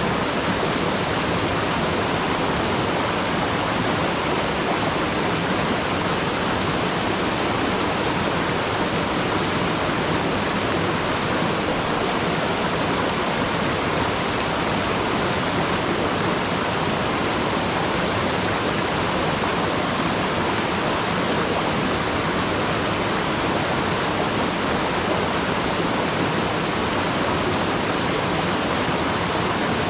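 Waterfall rushing steadily, a dense even roar of falling water heard from some distance.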